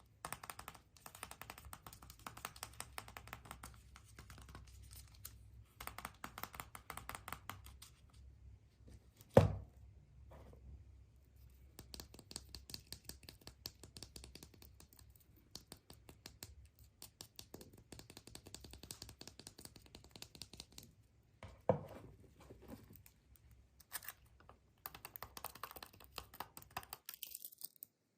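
Surprise eggs being unwrapped and handled close to the microphone: a dense, rapid crinkling and clicking of wrapper and packaging, with two sharp cracks, one about a third of the way in and one about three quarters in.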